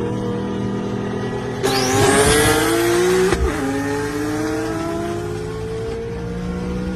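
Car engine running at a steady pitch, with a loud rushing surge of about a second and a half starting just under two seconds in, its pitch climbing, before the engine settles back to a steady note.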